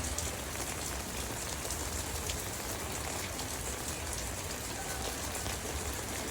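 A heavy tropical downpour: rain falling steadily and hard.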